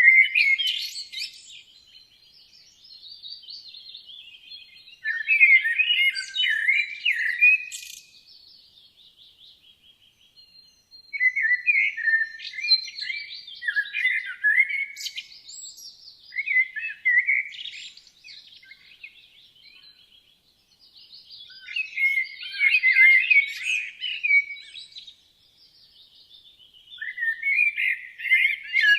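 Woodland songbirds singing: quick phrases of rapidly changing pitch every few seconds, with fainter song between them.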